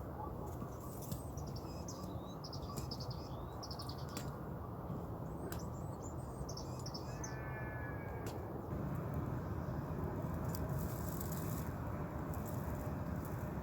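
Small songbirds chirping and twittering in short repeated phrases over a steady low background rumble, with a few sharp clicks. About nine seconds in the birdsong stops and the background rumble grows a little louder.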